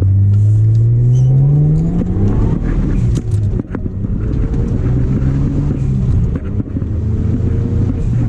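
Mitsubishi Galant VR-4's V6 engine revving up under acceleration: its note climbs for about two seconds, eases off, climbs again more slowly, then settles to a steady cruise near the end. The engine is being driven hard to check a misfire after newly gapped spark plugs; the driver finds it much better, with only a small hesitation left.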